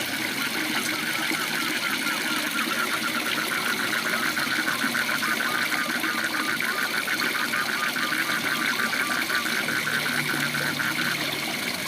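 Waterfall rushing steadily while a frog calls in a long, fast, even series of pulses that stops near the end.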